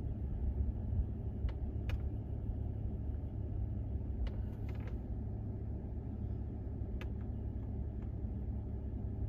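Steady low rumble inside the cabin of a 2018 Mercedes-AMG E43 idling with its twin-turbo V6 running, with a few faint clicks spread through it as the steering-wheel controller is pressed and pushed to scroll through the ambient lighting colours.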